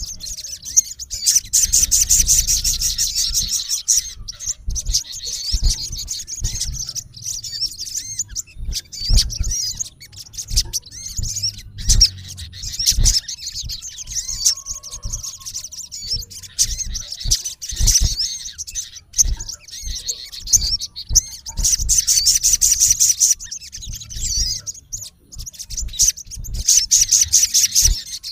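Male olive-backed sunbird giving rapid, high-pitched chirping calls at a rival, in repeated fast bursts with shorter notes between them. Scattered low thumps sound underneath.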